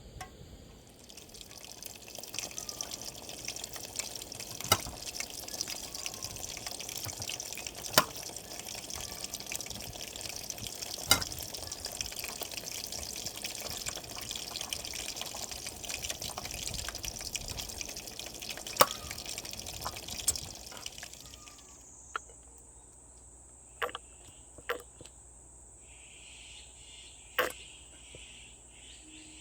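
Water running and splashing steadily, with a few sharp knocks, for about twenty seconds, then it stops. After that a steady, thin, high insect buzz remains, with a few clicks.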